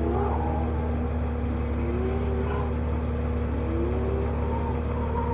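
Nissan 200SX drift car's engine revving up and down in waves as it slides, over a steady low hum.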